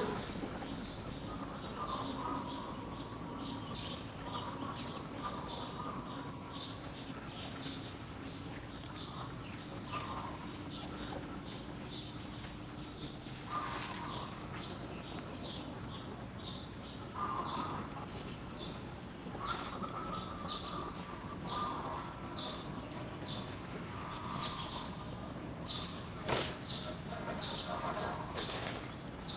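Outdoor ambience: a steady background hiss with scattered short chirping calls every few seconds, and a single sharp click late on.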